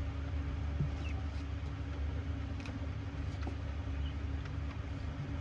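Steady low mechanical hum with a few faint clicks and brief high squeaks scattered through it.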